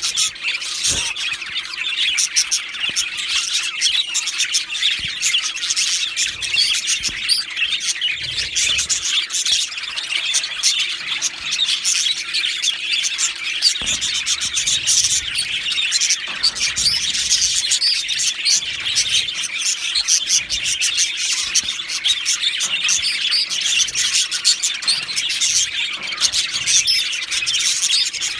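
Male budgerigars chattering and warbling nonstop, a dense stream of quick, high-pitched chirps and squeaks.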